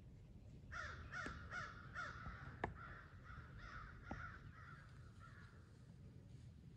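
Faint bird calls in a quick run, about three a second, starting just under a second in and fading out about five seconds in. One sharp click cuts through near the middle.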